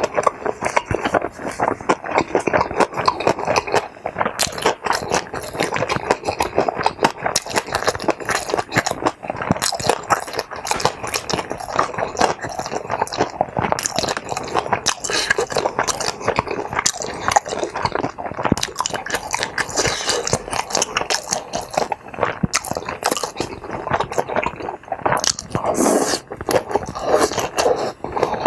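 Close-miked eating sounds: chewing and biting of tteokbokki rice cakes and kimbap, a steady run of small wet clicks and crunches.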